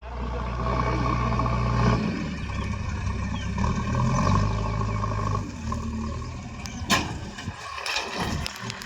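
Diesel engines of road-building machinery running, their note shifting a few times, with a single sharp knock about seven seconds in.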